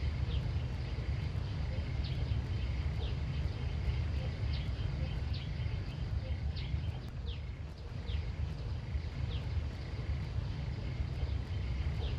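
Outdoor ambience: a steady low rumble, with a short high chirp repeating about once a second.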